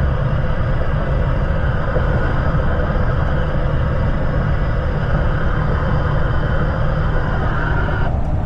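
Steady rumble of a vehicle on the move: engine and road noise with no break.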